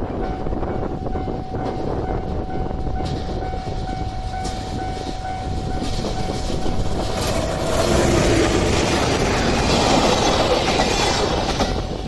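Level-crossing warning bell ringing steadily while a train passes over the crossing. The running noise of the train swells from about seven seconds in, is loudest from about eight to eleven seconds, and eases off near the end; the train is the Okuizumo Orochi trolley train.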